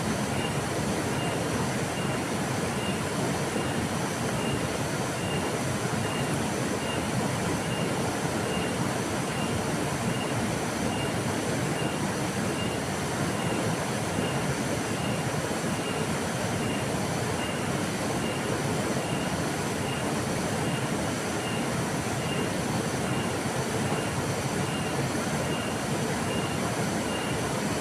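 A river flowing: a steady, even rush of water. A faint high-pitched pulse repeats about one and a half times a second throughout.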